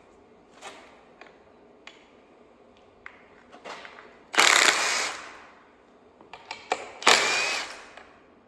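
A ratchet wrench backing out engine bolts: a few light tool clicks, then two loud bursts of about a second each, about four and seven seconds in.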